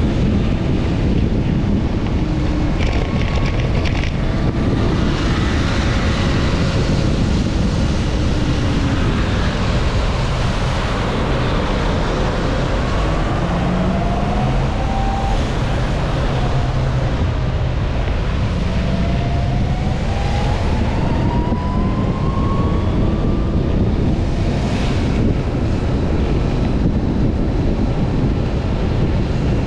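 Steady wind rushing over the microphone of a moving rider, with road and traffic noise. Engine tones of passing vehicles glide up and down in pitch through the middle.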